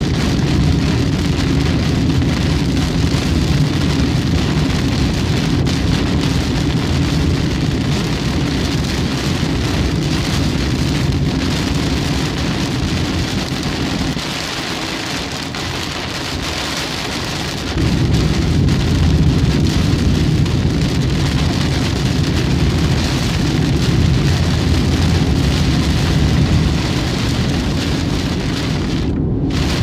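Heavy rain pelting a moving car's windshield and roof, over a steady low road rumble. The low rumble drops away for a few seconds about halfway through, then returns.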